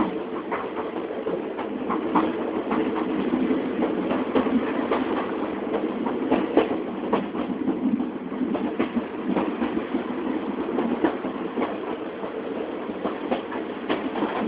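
Passenger train running along the track, heard from inside a carriage: a steady rumble with irregular clicks and clacks from the wheels on the rails.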